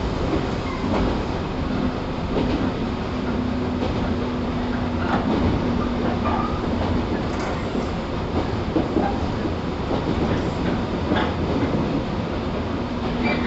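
Running noise inside a 115 series 1000-subseries electric train car, KuMoHa 115-1005, travelling at speed: a steady rumble of wheels on rail with scattered clicks over rail joints. A humming tone runs through the first half, drops out, and comes back near the end.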